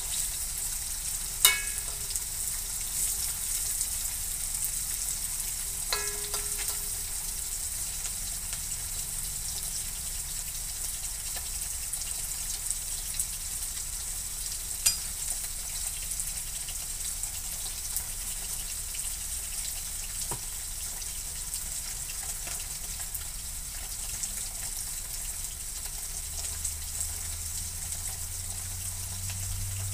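Tofu, anchovies and chillies sizzling in hot oil in a metal wok, a steady hiss. A few sharp clinks of a metal spatula against the wok, the loudest about a second and a half in.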